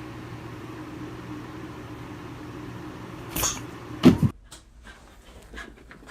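A steady low hum, then a brief hiss about three and a half seconds in and a short, loud call from a pet animal about four seconds in, after which the hum cuts off.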